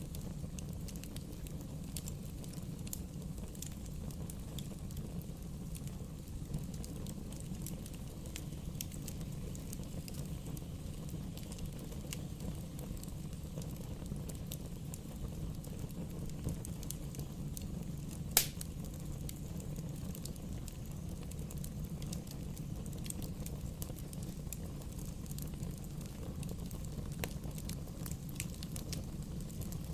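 Wood bonfire burning: a steady low rumble of the flames with scattered small crackles and pops, and one loud sharp pop about eighteen seconds in.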